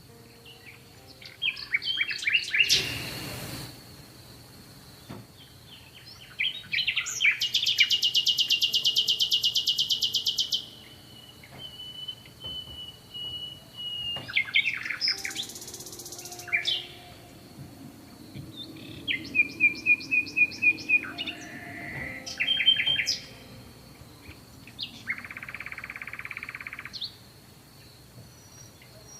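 Small songbirds singing: a run of varied chirps and quick trilled phrases, with a long, fast buzzing trill about seven to ten seconds in. A faint steady high tone runs underneath.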